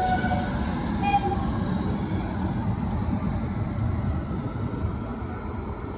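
Steady rushing rumble of a passenger train running at speed while it overtakes another express on the next track. A brief faint tone sounds about a second in. The noise eases off slowly toward the end.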